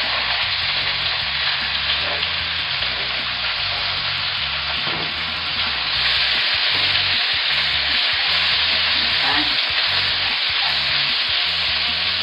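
Thin strips of chicken frying in hot olive oil in a skillet, a steady sizzle that grows a little louder about halfway through, with the chicken being stirred and turned in the pan.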